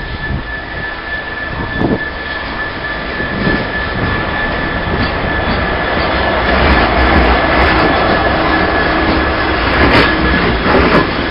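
A Class 66 diesel freight locomotive with a two-stroke V12 engine passes close by, getting louder as it approaches, with a steady high whine. Its loaded wagons follow with a heavy rumble and sharp clacks from the wheels near the end.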